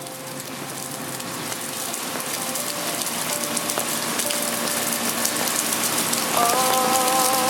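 Steady rain falling and pattering, fading in and growing louder. Near the end a wavering pitched sound with several tones comes in over the rain.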